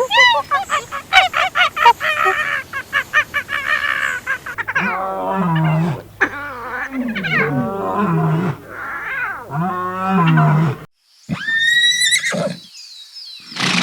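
Calls of several different animals cut one after another. First comes a fast run of short repeated cries, then a series of longer, lower calls that fall in pitch, and after a brief break a high call near the end.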